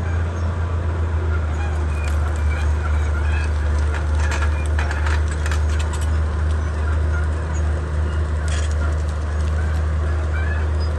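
Komatsu D31P bulldozer's diesel engine running steadily, with a run of sharp cracks and knocks about four to six seconds in and another near the end.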